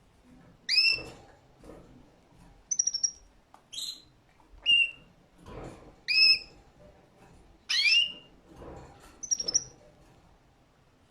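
Canary calling in short rising chirps, about seven of them with pauses of a second or so between, a couple broken into a quick stutter.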